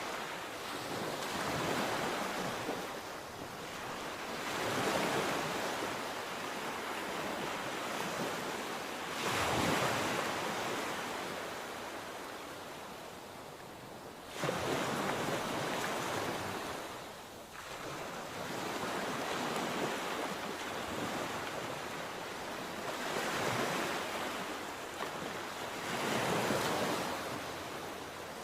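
Sea waves breaking and washing on the shore, the surf swelling and fading every few seconds, with one sharper break about halfway through.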